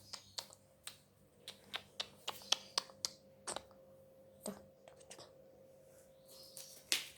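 A string of short, light clicks and taps at irregular intervals, most of them in the first few seconds, over a faint steady hum.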